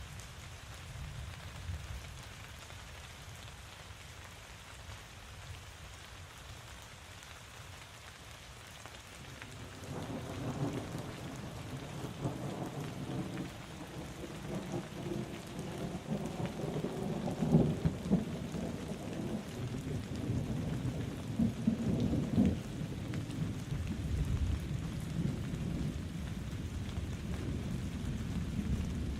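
Steady rain falling, with a long roll of thunder building about a third of the way in. It rumbles on with its loudest peaks around the middle and again a little later.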